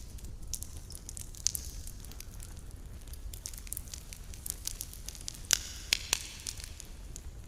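Wood campfire crackling, with many sharp snaps and pops. About two thirds of the way in, two loud pops are followed by a brief hissing sizzle.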